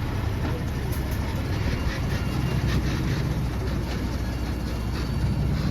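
Heavy earthmoving machinery running steadily: a diesel engine under way, with faint scattered clanks and rattles.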